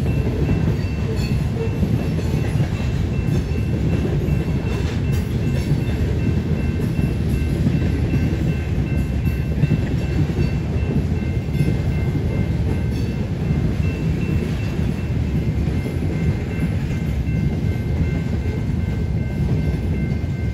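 Union Pacific grain train's freight cars rolling past in a steady low rumble, with faint steady high tones above it.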